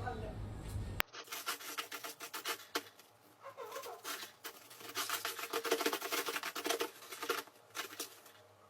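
Rapid scratching and rubbing, a dense run of small scrapes and taps that starts abruptly about a second in, is busiest in the middle, and fades toward the end.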